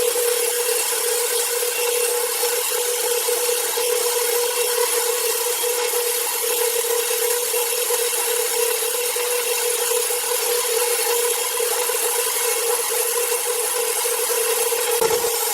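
Power saw cutting through wood: a steady, unbroken cutting noise over a constant hum.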